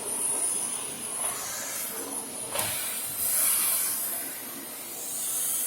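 Vacuum cleaner running with a high airy hiss that swells and fades as the nozzle moves, and a single knock about two and a half seconds in.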